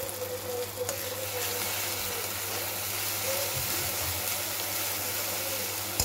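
Tomato puree sizzling in hot oil on top of fried onions, just added for a curry gravy base, as a steel spatula stirs it through the pan. A steady frying hiss, with a sharp spatula click about a second in and another at the end.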